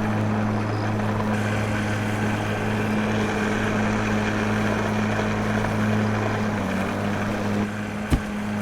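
Small electric motor of a homemade mini truck running steadily with a low, even hum. A sharp knock comes near the end.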